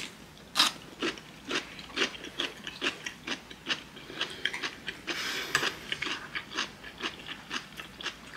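Crunching bites of chonggak kimchi (young ponytail radish kimchi) close to the microphone: a run of crisp crunches, about two a second.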